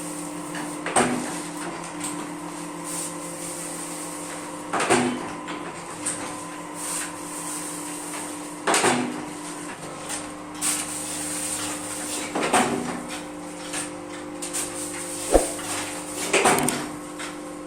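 Paper plate (dona pattal) making machine running with a steady hum, its press stroking with a short knock about every four seconds, five times in all, plus one sharp click near the end.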